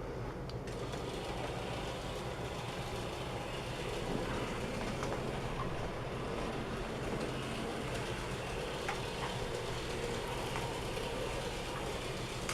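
Arnold N-scale model train running steadily on its track: the small electric motor's whir with the wheels' rolling rattle, a steady low hum and a few faint clicks.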